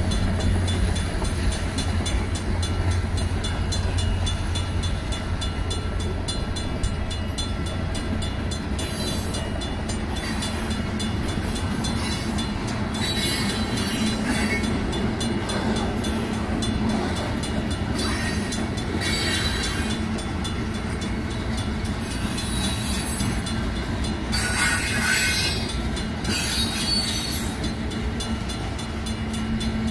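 Freight cars of a long mixed freight train rolling past over a grade crossing: a steady rumble and clatter of steel wheels on rail. Short bursts of high wheel squeal come several times.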